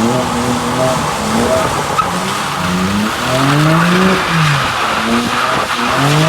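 Car engine revving up and down over continuous tire squeal as a car slides in circles doing donuts; the revs climb to a peak about four seconds in, drop, and climb again near the end.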